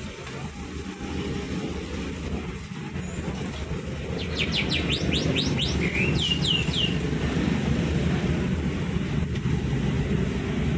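A small bird gives a quick run of about eight short, falling chirps near the middle, then a few more. Under it runs a low, steady rumble that swells over the first few seconds.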